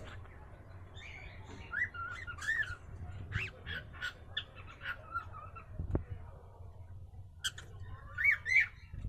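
Cockatiel squawking in a run of short, repeated calls, pausing for a couple of seconds before calling again near the end. A single sharp knock comes about halfway through.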